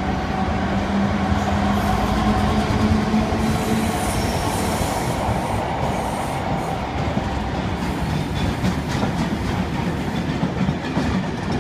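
Freight train running non-stop through a station, its wagons rolling past in a continuous loud rumble of wheels on rail. A steady low hum sounds for the first few seconds, and sharp clacks from the wheels become more frequent in the second half.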